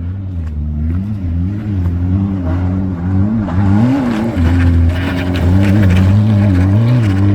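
Rallycross car engine racing hard, its revs rising and falling repeatedly as the driver works the throttle and gears, getting louder about halfway through.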